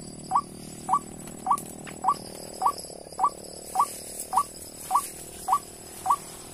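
White-breasted waterhen call played from a bird-lure caller: a short rising note repeated evenly, nearly twice a second.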